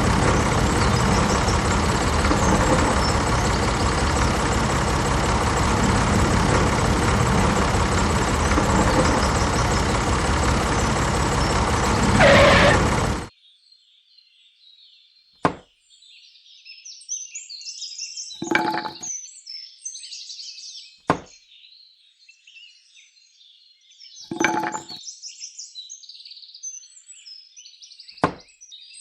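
A tractor-type engine running steadily, cutting off suddenly about 13 seconds in. After that, birds chirp faintly, with a few short sharp knocks.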